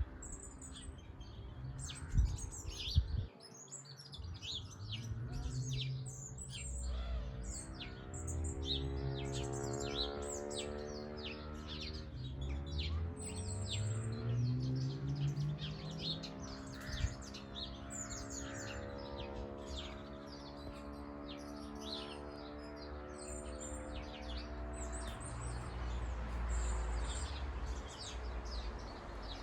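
Small garden birds chirping and twittering continuously. Behind them is a low droning hum whose pitch slides slowly down and back up, and there are a couple of sharp knocks about two to three seconds in.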